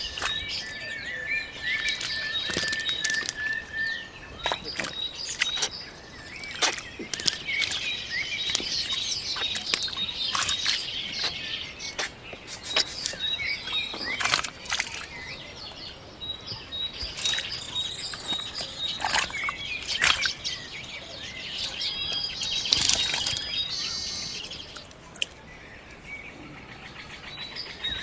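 Small birds chirping and calling repeatedly, with high whistled notes and short twittering phrases, mixed with scattered sharp clicks and taps.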